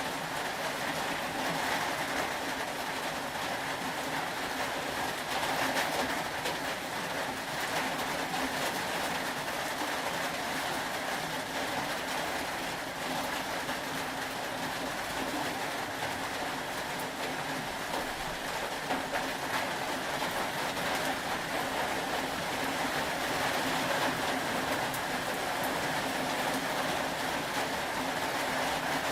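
Steady rain, an even rushing noise that holds at one level throughout, with a faint low hum underneath.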